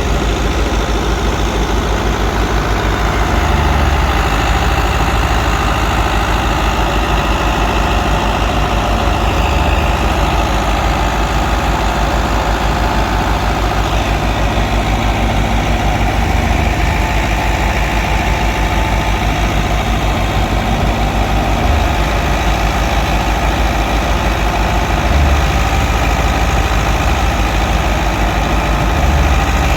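Fiat 640 tractor's diesel engine running steadily as it drives a wheat thresher, with the thresher's machinery noise mixed in.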